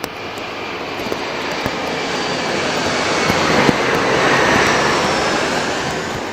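Jet airliner's twin turbofan engines, an Embraer E-Jet of Fuji Dream Airlines, passing: a rushing engine noise with a faint high whine swells to its loudest about four seconds in, then begins to fade. Sharp ticks of raindrops hitting near the microphone are scattered through it.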